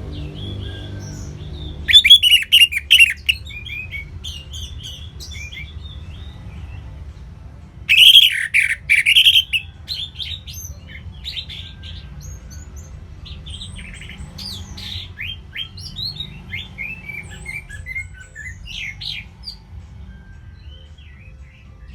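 Recorded songbirds chirping and trilling in a dense mix of short high phrases, with two loud bursts of rapid chirping, one about two seconds in and one about eight seconds in, and softer calls between. It is a lure mix of assorted birdsong played to prompt a captive orange-headed thrush to sing.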